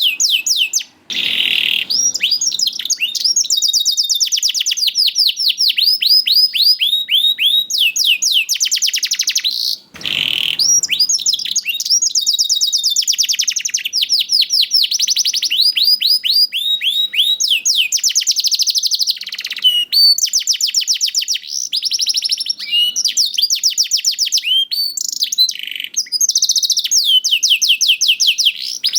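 Domestic canary singing a long, continuous song of fast trills, each made of rapidly repeated high notes, with two short breaks, one about a second in and one about ten seconds in.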